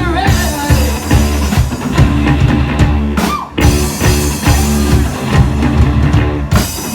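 Live rock band playing an instrumental passage: drum kit, bass and electric guitar, with a short break about three seconds in before the groove picks up again.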